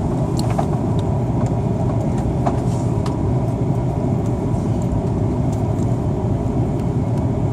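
Steady cabin noise inside an Airbus A330-300 airliner in flight: a continuous low rumble of engines and airflow, with a thin steady hum and a few faint clicks.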